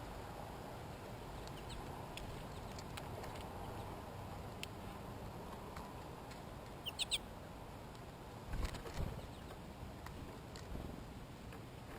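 A quick run of short, high chirps or squeaks from a small animal about seven seconds in, followed by a couple of soft thumps, over a steady low background rumble.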